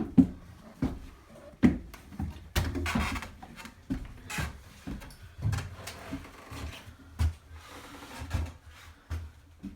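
Footsteps climbing steep wooden ladder-style stairs: a series of irregular wooden knocks and thuds, about one step every second, with some rubbing and shuffling between.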